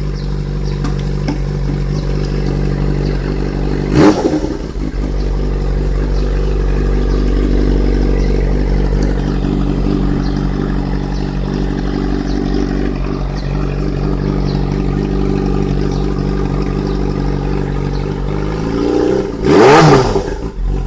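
Motorcycle engine running steadily, with a sharp knock about four seconds in and a brief rev near the end.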